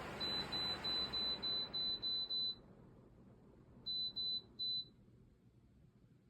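Dreo tower fan's control panel beeping as its buttons are pressed: about eight quick, high beeps in a row while the fan's air noise dies away, then three more beeps about four seconds in.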